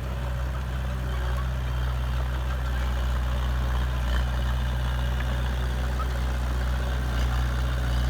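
Heavy diesel engine of construction machinery running steadily at an even low pitch.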